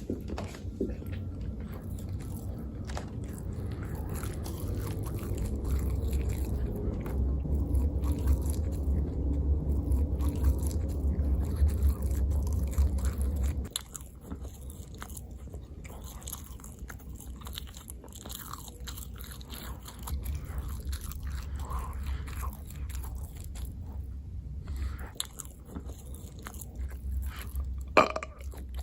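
Close-miked chewing and biting of a person eating, with wet mouth clicks throughout. The chewing is loudest and deepest in the first half and drops off sharply about halfway through, with a short loud mouth sound near the end.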